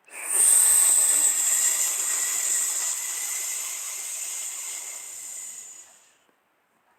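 Jet aircraft passing close: a loud hissing jet noise that sets in suddenly, then fades slowly over about six seconds, its high pitch sinking slightly.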